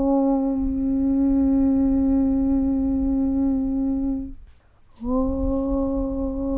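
A voice chanting a long, steady 'Aum' (Om) on one low pitch. The tone stops about four seconds in, and after a short pause a new 'Aum' starts, sliding up slightly into the same pitch. A low rumble runs underneath.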